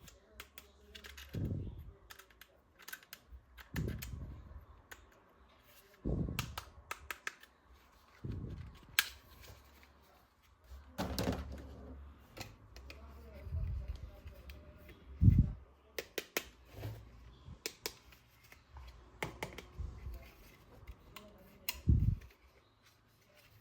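Plastic toy parts being handled: irregular sharp clicks and taps with dull thumps every second or two, the loudest thump about fifteen seconds in.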